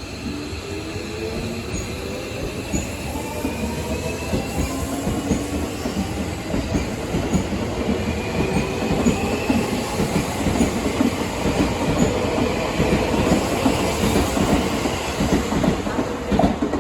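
Seibu 40000 series electric train accelerating, its Toshiba IGBT-VVVF inverter and permanent-magnet traction motors giving several whining tones that rise steadily in pitch. The train grows louder as it picks up speed, and the wheels clack over the rail joints.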